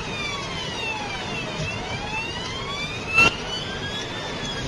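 Police car siren on a slow wail, its pitch sweeping down over a couple of seconds and then back up, over steady road and engine noise. A brief loud burst cuts in about three seconds in.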